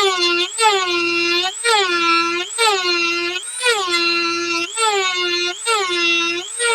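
Dremel rotary tool grinding into the black epoxy package of a Dallas DS12887A real-time clock chip. It gives a steady high whine whose pitch briefly rises and drops back about once a second.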